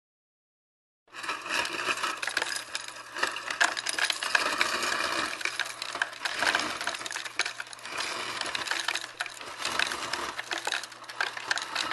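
Dense crackling with many sharp clicks and clinks over a low steady hum, starting abruptly about a second in.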